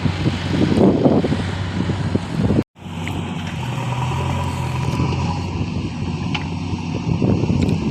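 Heavy diesel engine of a tractor or backhoe loader running, swelling and easing about once a second at first. It breaks off to silence for a moment about two and a half seconds in, then carries on as a steadier drone.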